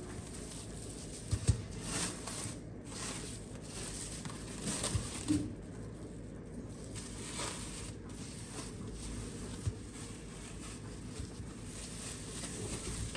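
Light household handling sounds: a few soft knocks and brief rustling over a steady background hiss.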